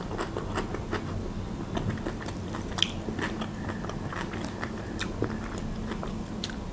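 Close-up chewing of a mouthful of tender minced-lamb cutlet, wet mouth sounds with scattered soft clicks, a few sharper ones about three, five and six and a half seconds in.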